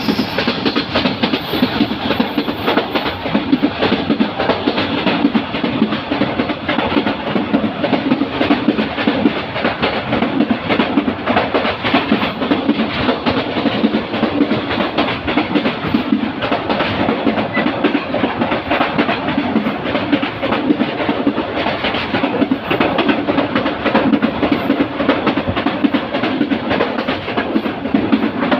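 Moving train running steadily: a continuous rattling rumble of wheels on the rails with clickety-clack.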